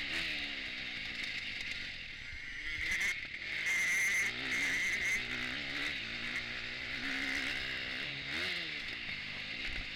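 Motocross bike engine revving up and down through the gears as it is ridden hard round a dirt track, heard from the bike's own onboard camera, with a steady hiss over it.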